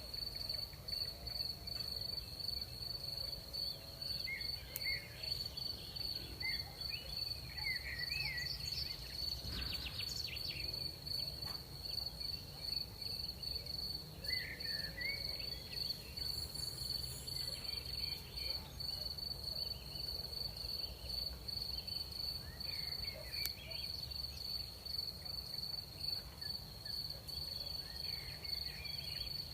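Night chorus of crickets: a steady high-pitched trill that never lets up, with scattered short chirps from other night creatures and a low rumble of night air underneath.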